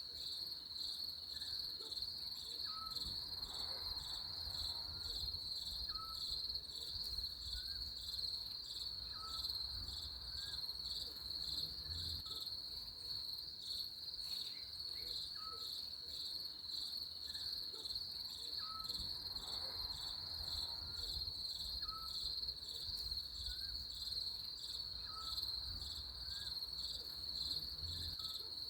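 Nature ambience of a steady, high-pitched insect trill, with short faint chirps every second or two beneath it.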